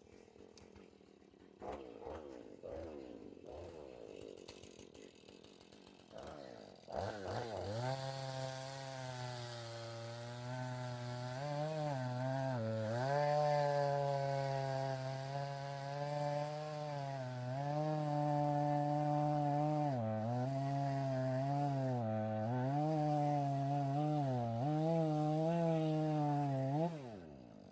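Chainsaw engine running. After a few seconds of quieter, uneven sound, it is throttled up about seven seconds in and held at high speed, dipping briefly in pitch several times. Near the end it drops off and winds down.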